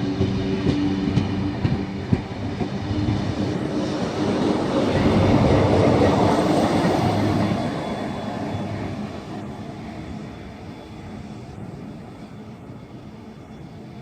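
A train going by on the rails, swelling to its loudest about six seconds in and then fading away.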